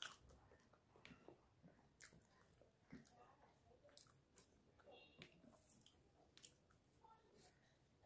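Faint chewing and small wet mouth clicks of someone eating rice khichdi by hand, with soft scattered ticks as fingers work the food on the plate.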